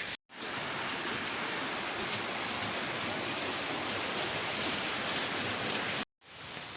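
Waterfall: steady rushing of falling water, cut off abruptly for a moment near the start and again near the end.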